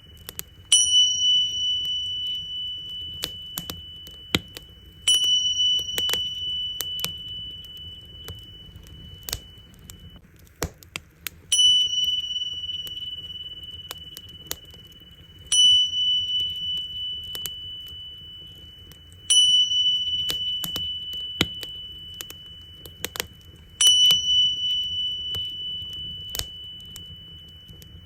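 Tingsha cymbals struck six times, about every four seconds, each a single high clear ring that fades slowly. A wood fire crackles and pops underneath.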